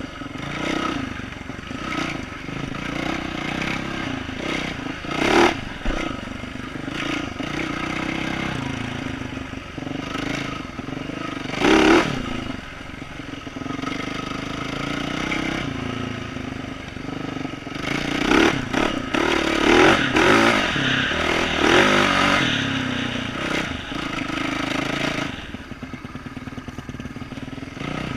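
2012 Yamaha YZ450F's single-cylinder four-stroke engine, with an aftermarket exhaust, running at trail speed, its note rising and easing with the throttle. Over it come loud clattering knocks: one about five seconds in, another near twelve seconds, and a burst of several later on, typical of the bike jolting over roots.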